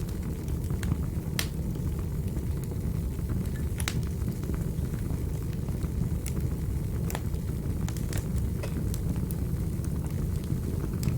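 Fireplace fire burning with a steady low rumble and sharp crackles and pops at irregular moments, several standing out clearly, for instance about a second and a half in and near four seconds in.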